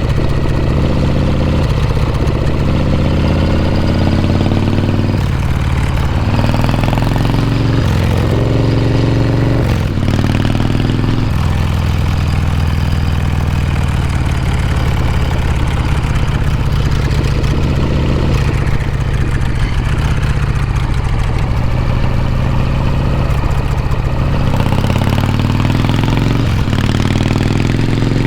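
Harley-Davidson Shovelhead V-twin exhaust while riding, climbing in pitch through the gears several times in the first ten seconds and again near the end, with a steadier cruising note in between.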